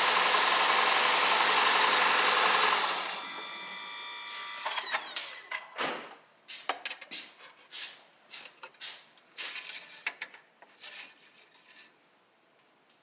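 Car engine idling steadily, then switched off about three seconds in, its sound dying away over the next second or so; the engine sounds okay to the inspector, who can't confirm a blown head gasket from it. Scattered clicks and rustles follow.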